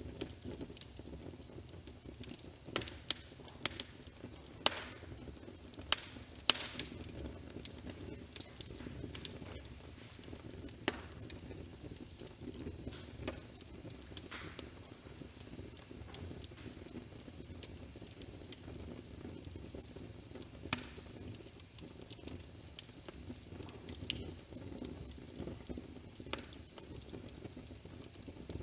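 Wood fire crackling, with irregular sharp snaps over a low steady rumble.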